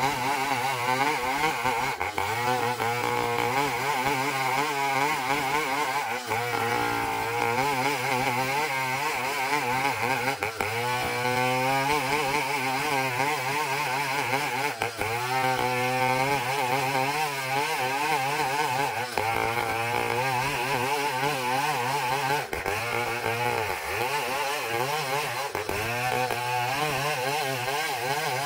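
Engine-driven trio sawmill saw cutting through a long ulin ironwood log, running continuously. Its engine note wavers up and down under the load of the cut, sagging and climbing back twice along the way.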